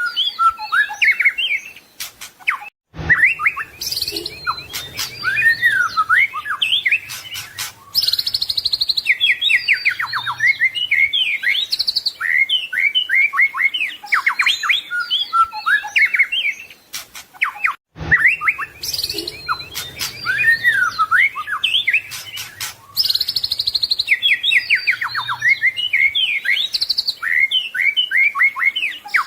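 White-rumped shama singing a fast, unbroken song of varied whistles, trills and chirps, full of mimicked phrases. The song breaks off briefly twice, about 3 and 18 seconds in, as the recording loops.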